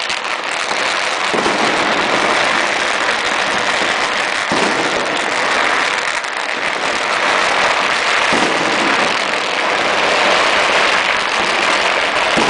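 Many fireworks and firecrackers going off at once, a dense, continuous crackle with no gaps.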